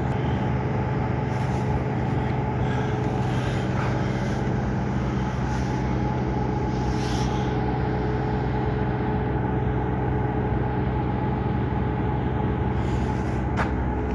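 A steady mechanical hum from a running engine or motor, holding several fixed tones without change. A short sharp click comes near the end.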